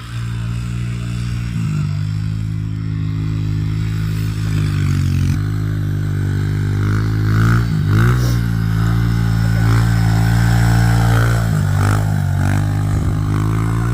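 Dirt bike engine running under throttle while towing a sled, its note dropping briefly and climbing back several times.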